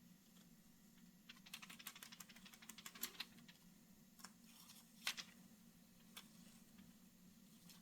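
Faint rapid clicking for about two seconds, then a few single ticks, the loudest about five seconds in, over a low steady hum.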